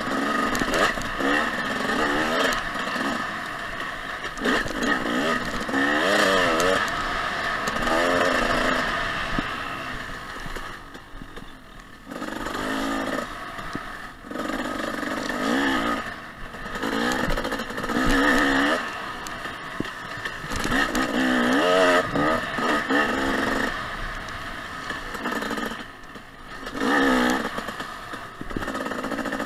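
Husqvarna TC 250 two-stroke dirt bike engine revving up and down while riding a trail, with the throttle repeatedly opened and shut and brief lulls when it is rolled off.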